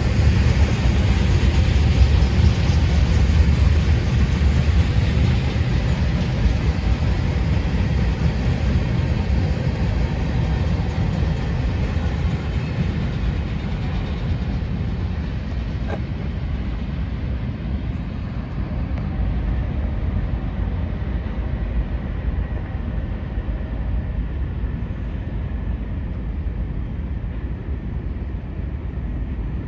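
Union Pacific train rolling past with a steady rumble that slowly fades and dulls as it moves away.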